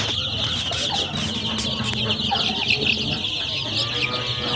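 A brood of young chicks peeping continuously, many high, short cheeps overlapping at once.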